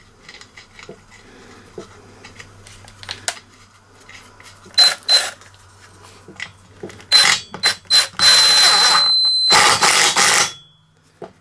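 Cordless power tool with a 13mm socket tightening the left-hand-threaded impeller nut on a leaf blower: two short bursts about five seconds in, then a loud run of about three seconds with a steady high whine that cuts off near the end.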